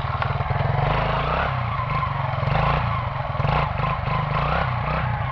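Quad (ATV) engine running as it is ridden, its note changing about a second and a half in, over a steady hiss.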